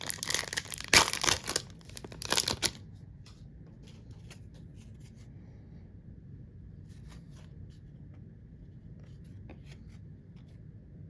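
A 2025-26 Upper Deck MVP hockey card pack's wrapper being ripped open, with loud crinkling tearing for about the first three seconds. After that, only faint scattered clicks as the cards are handled.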